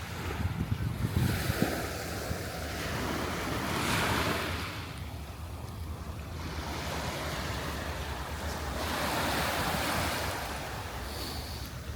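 Gulf surf washing up on the beach, swelling twice as waves come in, with wind buffeting the microphone in gusts near the start.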